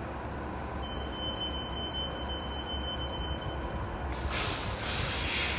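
Train rumbling steadily, with a steady high-pitched tone sounding for about three seconds, then a burst of air hiss starting about four seconds in.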